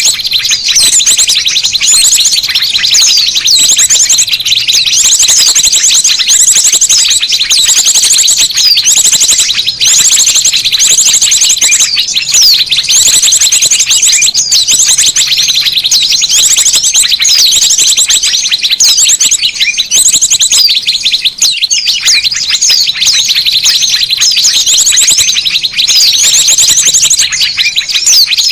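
A loud, dense chorus of small birds chirping and trilling over one another, with high, rapid trills repeating over and over: a bird-luring (pikat) recording used to call small birds in.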